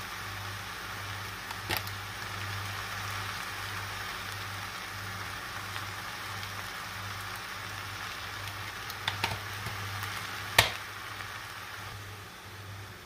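Vegetables sizzling in oil in a stainless steel pot, a steady hiss, with a few sharp knocks, the loudest about ten and a half seconds in. A low hum pulses on and off underneath.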